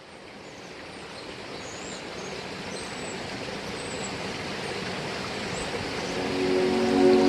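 Steady outdoor background noise fading in and growing louder, with a few brief, faint high bird chirps. Music starts near the end.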